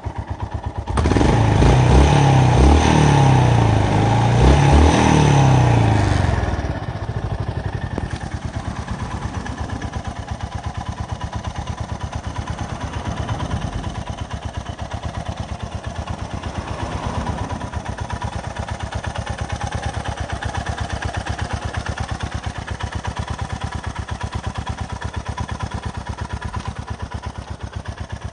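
Honda GB350S's air-cooled single-cylinder engine, breathing through an aftermarket carbon muffler, idling with an even beat. From about a second in it is revved up and down several times, then settles back to idle.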